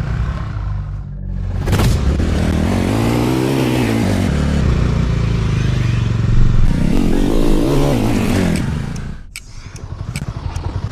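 Vehicle engine labouring up a rocky off-road track, revving up and down twice with clatter and scraping from the rough ground. Near the end the engine note drops away and a run of quick clicks follows.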